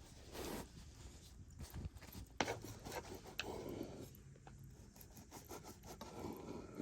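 Intermittent rubbing and scraping, with a sharp knock about two and a half seconds in and a lighter one a second later.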